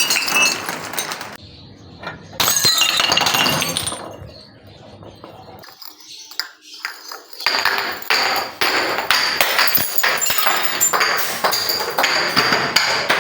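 Glass bottles being crushed: crunching and breaking glass with many small clinks of shards, in three stretches with quieter gaps between, the longest from about halfway through to the end.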